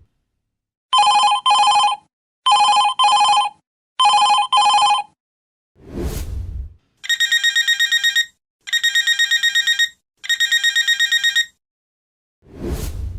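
Telephone ringtones played in sequence. First comes a double ring, two short bursts of steady tone, heard three times. A short falling sweep follows, then a higher trilling ring in three long bursts, with another falling sweep near the end.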